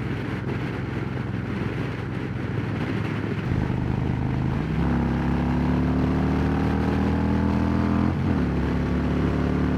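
Harley-Davidson Road Glide Special's V-twin engine through Rinehart true-dual exhausts accelerating: its note climbs steadily for about three seconds, drops suddenly at an upshift, then climbs again, over steady wind noise on the helmet microphone.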